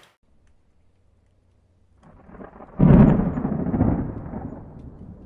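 A deep rumble that swells suddenly just under three seconds in and dies away over about two seconds.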